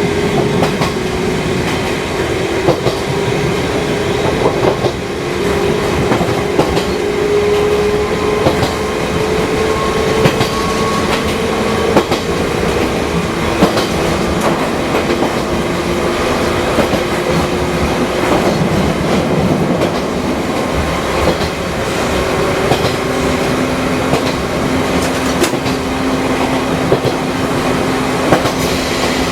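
Fukui Railway 200-series electric railcar running, its motors whining in steady tones, one rising slowly in pitch over the first twelve seconds or so. The wheels clack over rail joints now and then.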